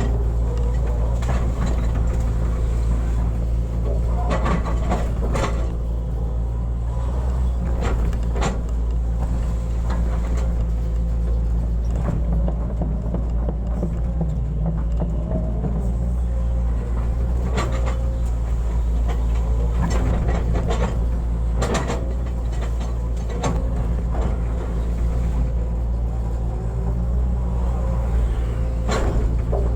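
Hitachi excavator's diesel engine running steadily under load, with sharp knocks and clanks every few seconds.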